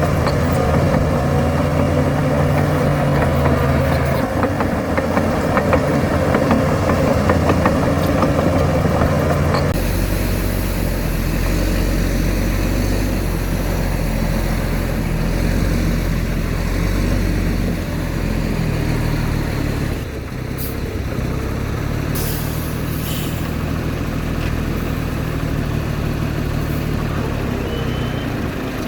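Heavy diesel engines of earthmoving machinery running steadily, with the engine sound changing abruptly about a third of the way in. A few short hisses come about two-thirds of the way through.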